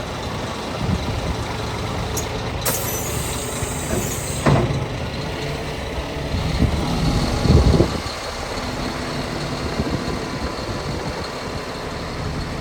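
Scania P 360 truck's diesel engine running, with a short hiss of released compressed air about three seconds in, a click, and a louder low thump a little past halfway.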